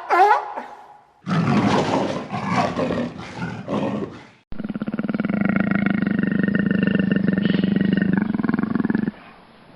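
A large animal's roaring calls: a rough, noisy call from about a second in lasting some three seconds, then a long, steady, rasping call of about four and a half seconds that stops shortly before the end.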